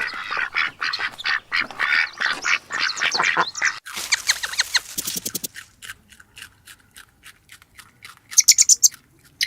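Birds calling: a dense run of rapid quacking calls, then after a sudden change about four seconds in, sparse short sharp calls with a quick high chirping burst near the end.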